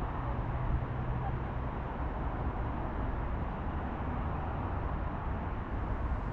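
Steady low rumble of distant motor traffic, with a low engine hum through the first second and a half.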